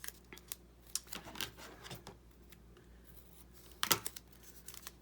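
Scissors snipping washi tape in a series of short, sharp cuts, with one louder click a little before four seconds in.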